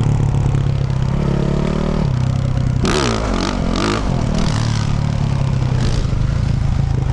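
Yamaha YZ450F single-cylinder four-stroke dirt bike engine through a Yoshimura RS-12 exhaust, running at a steady throttle. About three seconds in the revs swing up and down over roughly a second, with several sharp clattering knocks.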